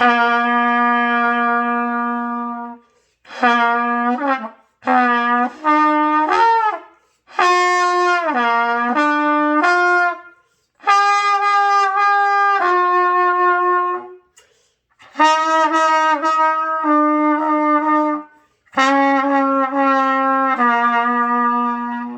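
Trumpet playing a long low held note, then several short phrases that step up and down among a few low notes, with brief breaks for breath between them, as a beginner practises the do-mi-sol exercise.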